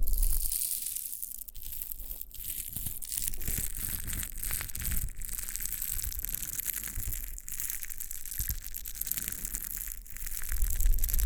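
Close-up ASMR scratching and rubbing on the ear of a KU100 binaural dummy-head microphone: dense crackly scratching, with a low rumble of contact with the head near the end.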